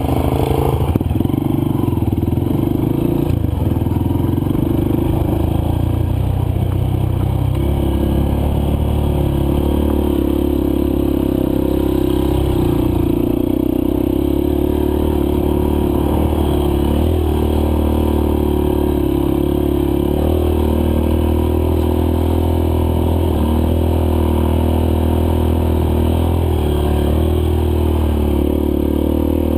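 Dirt bike's single-cylinder four-stroke engine running steadily under way, its pitch stepping up and down several times as the revs change.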